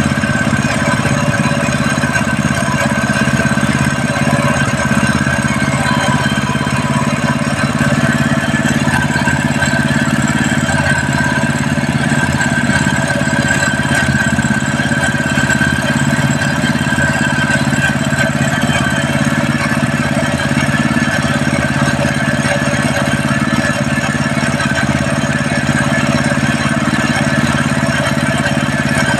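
A 7.5 HP single-cylinder gasoline engine running at a steady speed.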